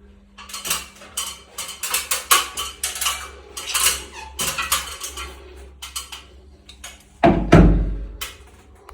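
Repeated metallic clinks, knocks and clatter of parts and tools being handled while working on an electric water heater, with a heavier knock about seven seconds in.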